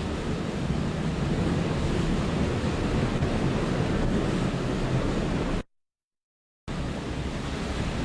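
Hurricane-force wind from a Category 4 hurricane's eyewall blasting across the microphone: a steady, dense rush heaviest in the low end. The audio cuts out completely for about a second near the end, then the wind noise returns.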